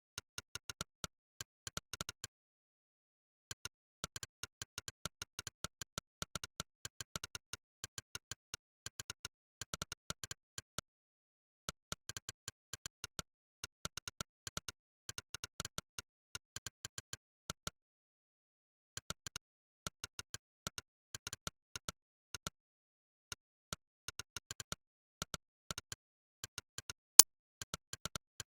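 Monkeytype's synthesized 'click' keypress sound, one short click for each key typed, coming in quick irregular runs with brief pauses between bursts of typing. One click near the end is much louder than the rest.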